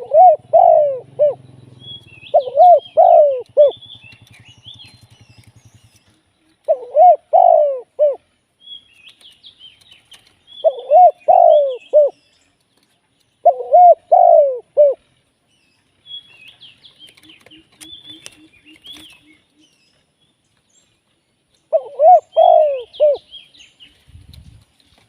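Spotted dove cooing: six phrases of three or four quick, arching coos with pauses between them. Small birds chirp faintly and higher in the background.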